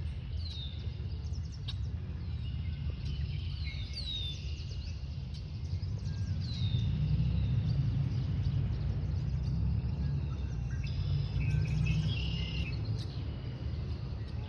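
Birds chirping, a string of short high falling notes repeated every second or so, over a steady low rumble.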